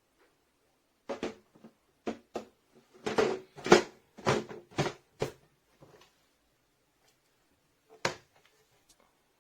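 A series of sharp knocks and clacks, about a dozen, coming thick in the first half and then one more sharp one near the end.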